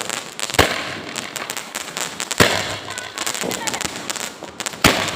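12-shot fireworks cake firing: three loud bangs about two seconds apart, with smaller crackles and pops between them.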